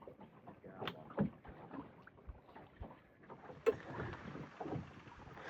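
Small fishing boat ambience: irregular knocks and handling noises of fishing gear on the boat, with a sharp click or knock about a second in and a louder one a little under four seconds in.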